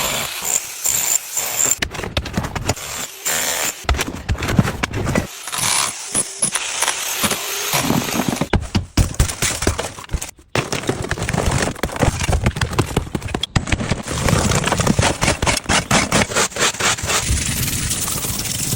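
Car being washed, heard as noisy spraying and scrubbing that changes abruptly from shot to shot.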